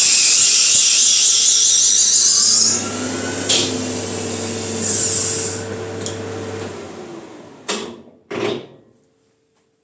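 Maximat metal lathe running at high speed with a bicycle disc brake pressing on its spinning rotor: a loud, high screech for about three seconds over the motor's hum, then the hum fades as the brake drags the spindle to a stop. Two short clunks follow near the end.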